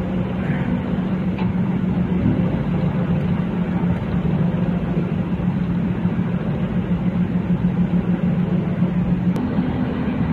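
Vehicle engine and road noise while driving: a steady hum, whose engine note steps up in pitch near the end.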